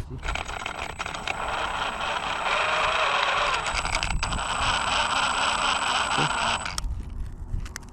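RC 4x4 truck's brushless electric motor and drivetrain running, a steady mechanical whir with a thin high whine on top, cutting off suddenly near the end.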